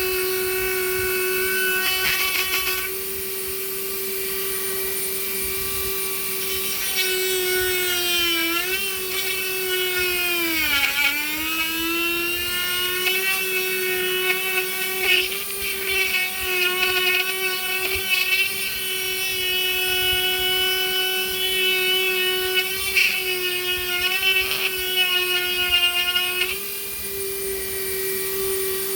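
Small high-speed rotary carving tool running with its bit cutting into wood, giving a steady whine. The pitch sags twice in the first half as the bit bears into the wood, then holds while cutting eases off near the end.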